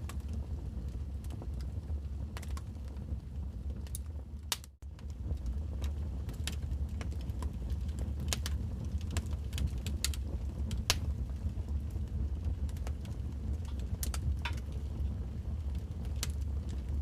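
Wood fire burning: scattered sharp crackles and pops over a steady low rumble. The sound cuts out for a moment about five seconds in, then carries on.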